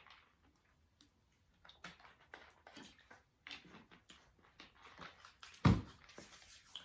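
Scattered faint clicks and taps, with one louder thump about five and a half seconds in.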